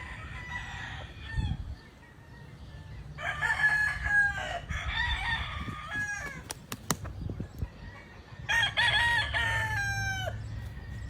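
Gamefowl roosters crowing, several long crows one after another, each trailing off downward at the end, with a few sharp clicks between them.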